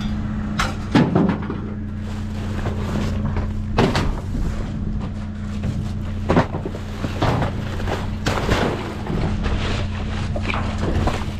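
Rummaging through trash in a dumpster: irregular rustling and knocks of bags and objects being shoved aside, with a few sharper thuds. A steady low hum sits underneath.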